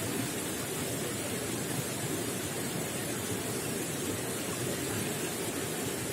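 Flowing water gurgling and splashing steadily.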